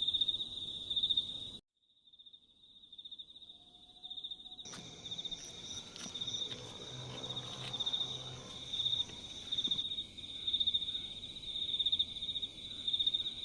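Crickets trilling in a steady, pulsing chorus. The sound drops out for a moment under two seconds in, then comes back, and a second, higher trill joins about five seconds in.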